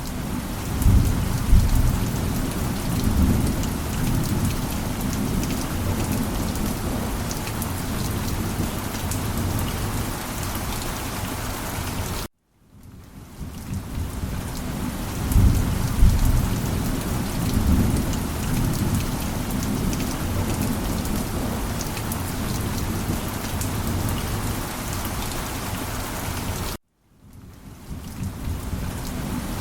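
Heavy rain falling steadily with low rolling thunder, the rumble swelling a second or two after each start. The recording cuts off abruptly twice, about 12 and 27 seconds in, and fades back in each time, as a loop repeats.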